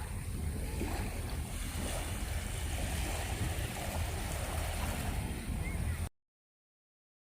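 Strong gusty wind buffeting the microphone over surf washing onto a beach, typhoon weather. The sound cuts out abruptly to silence about six seconds in.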